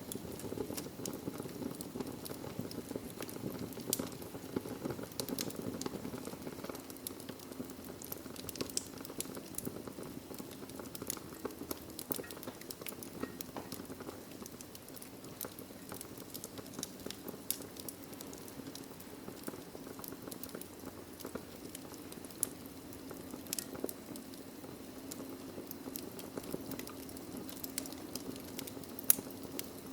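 Wood logs burning in a fireplace: a steady low rush of flame with continual irregular crackles and small snapping pops, a few sharper pops standing out.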